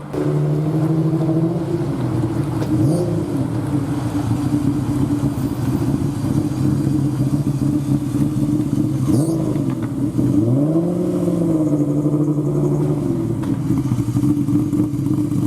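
Car engine running steadily, with a brief fall and rise in pitch about ten seconds in.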